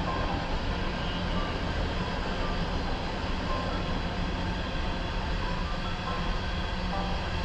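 Freight train rolling past with a steady rumble.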